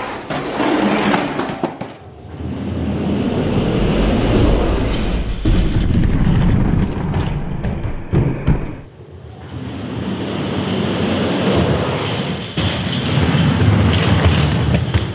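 Die-cast toy monster trucks rolling down a plastic racing track, a continuous rumbling clatter that swells twice.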